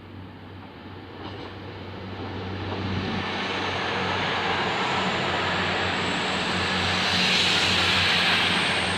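A train approaching on the Midland Main Line. It grows steadily louder over the first four seconds, then runs loud with a steady low hum and rushing noise, and a high whine rises near the end.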